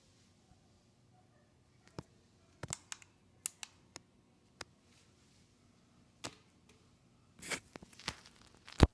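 Scattered clicks and knocks from a handheld iPad being handled while recording, about ten in all, with a brief rustle and the loudest knock near the end.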